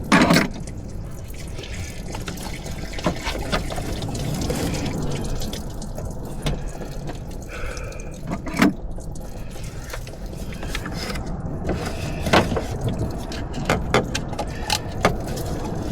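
Engine coolant pouring and trickling out of an opened thermostat housing, with scattered sharp clicks and clinks of tools and parts being handled.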